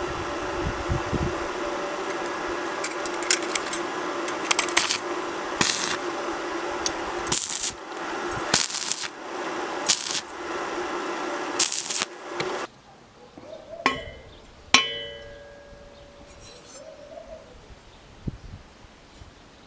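A small motor hums steadily while metal parts clank against each other many times. The motor cuts off suddenly about two-thirds of the way through, and then two metal clinks ring out.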